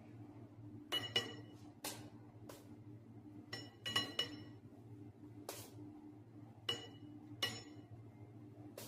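Irregular sharp clinks of kitchen utensils against a hard dish, about a dozen, each with a brief ringing tone, over a steady low hum.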